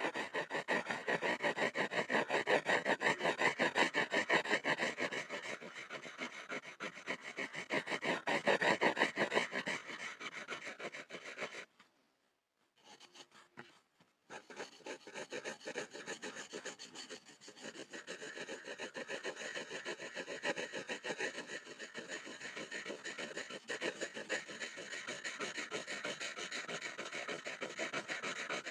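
Pencil scribbling on a wooden board, rapid back-and-forth scratching strokes. The scribbling stops for a couple of seconds near the middle, then resumes a little softer.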